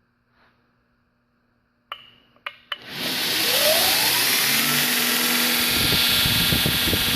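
2x72-inch belt grinder being switched on: three sharp clicks, then the motor spins up with a rising whine and the belt runs steadily at speed. A rough low rumble joins about three seconds after start-up.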